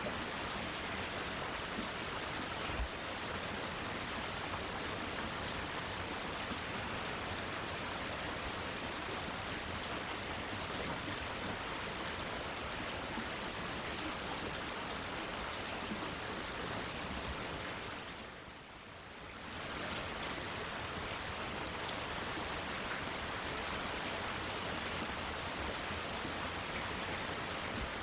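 Steady rainfall, an even hiss of drops, with one brief knock about three seconds in. The rain sound dips for about a second around two-thirds of the way through, then comes back as before.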